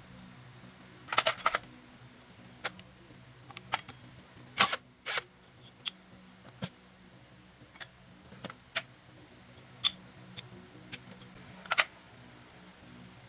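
Hand tools and small metal parts clicking and clinking against each other at irregular intervals, a dozen or so sharp strikes with a couple of louder clusters, over a faint steady hum.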